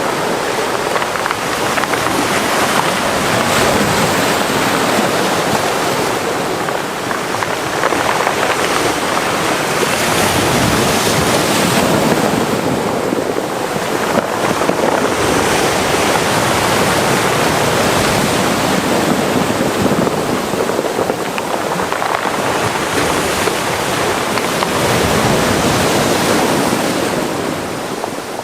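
Mediterranean sea waves washing into a cove: a continuous rush of surf that swells and eases every few seconds.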